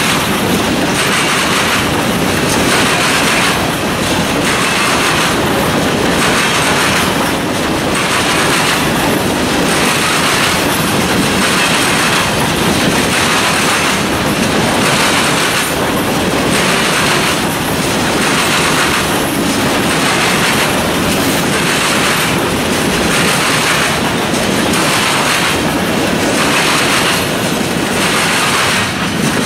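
Freight train of hopper cars rolling past close by: a steady, loud rumble of steel wheels on rail with a regular clickety-clack as the wheel sets cross the rail joints.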